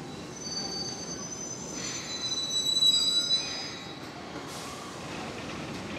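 Enshu Railway electric commuter train braking to a stop at a station platform, its wheels and brakes giving a high, multi-tone squeal that swells to its loudest about three seconds in and dies away as the train halts, over a low running rumble.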